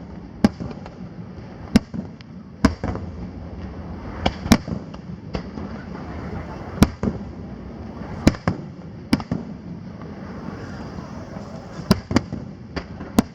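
Aerial firework shells bursting overhead in a rapid, irregular series of sharp bangs, about fifteen in all, some coming in quick pairs, over steady background noise.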